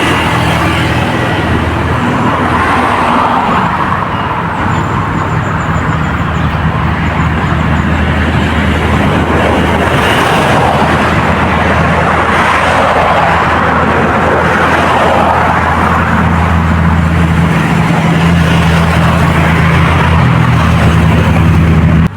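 Steady low engine hum with traffic-like noise that swells and fades several times, as of motor vehicles passing.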